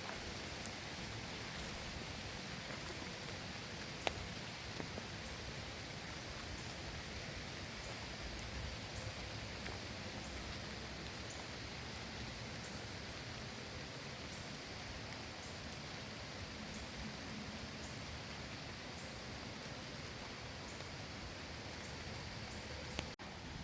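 Steady lake-effect rain falling, with scattered ticks of drops striking a surface. There is one sharp click about four seconds in.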